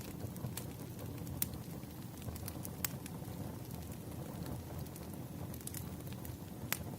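Wood fire burning: a steady low rumble of flames with sharp crackles and pops at irregular intervals, one of the strongest near the end.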